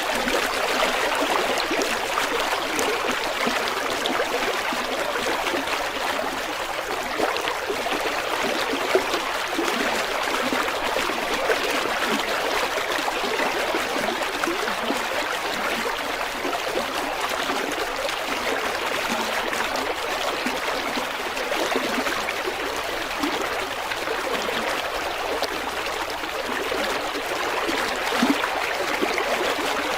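A shallow river or stream running and burbling over rocks, a steady rushing with small splashes and gurgles.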